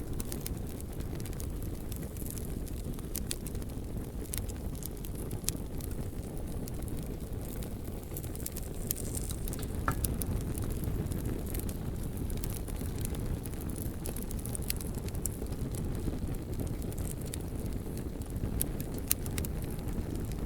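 Wood bonfire burning with a steady low rumble, crackling and popping in scattered sharp snaps.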